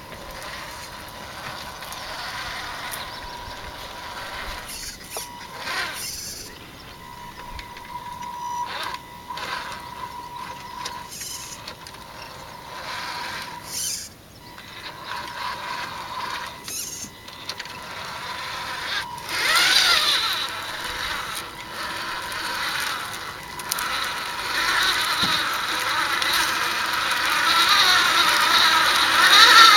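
Electric motor and gearbox of a Tamiya Mercedes SK radio-controlled truck whining under a heavy load, a steady tone at first, then speeding up with rising and falling pitch about 19 seconds in and again near the end, getting louder.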